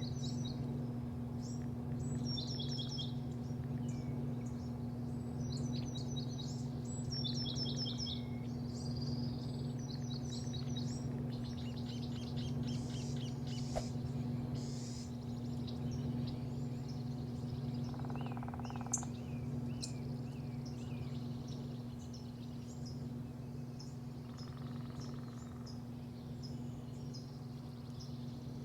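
Small birds chirping in quick repeated groups, thinning out after the first half, over a steady low mechanical hum.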